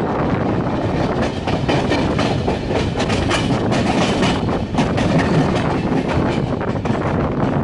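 Rajdhani Express passenger train running along the track, heard from on board, its wheels clattering over the rails in a steady stream of irregular clicks and knocks.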